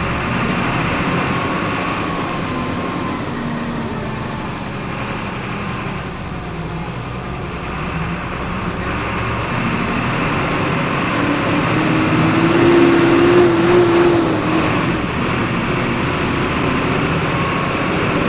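Volkswagen 17.230 EOD city bus engine running under way, heard from inside the bus. Its note shifts with speed, builds louder about two-thirds of the way through, then eases off.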